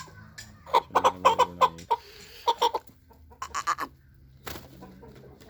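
Aseel chicken clucking: a fast run of short sharp calls about a second in, then two shorter clusters of calls and one more near the end.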